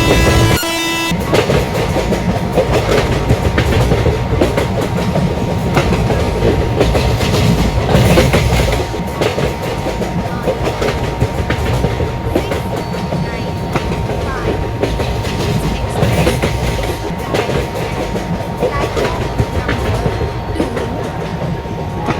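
Indian Railways express train running at speed, with a steady rumble and its wheels clattering over the rail joints. A pitched tone stops about a second in.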